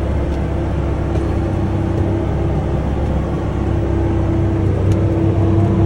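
Case IH Steiger tractor's diesel engine running steadily under load, a continuous low drone.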